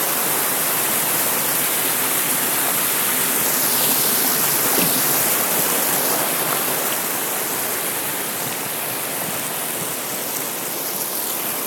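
Waterfall rushing: steady, dense water noise, easing slightly near the end.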